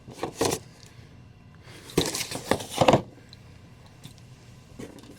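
Merchandise and packaging being handled: rustling and light knocks in two bursts, a short one about half a second in and a longer one from about two to three seconds.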